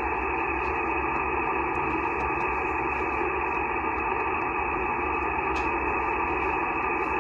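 Steady hiss of 15 m band noise from a Yaesu FT-891 transceiver's speaker in SSB receive. It is heard between transmissions, with no station on the frequency.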